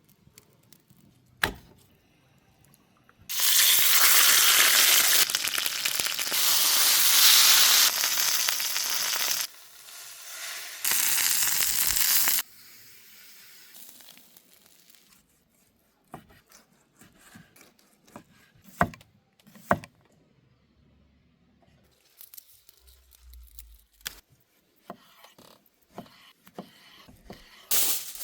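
Beef searing in a hot pan over a campfire: a loud sizzle in two stretches that start and stop abruptly, then scattered clicks and knocks of utensils and handling.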